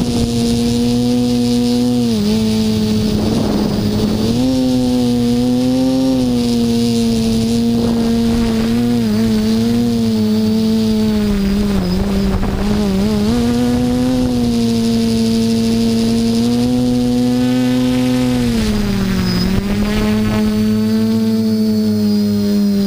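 Hoverthings HT-FPV quadcopter's electric motors and propellers humming steadily in flight. The pitch dips briefly about three times as the throttle changes.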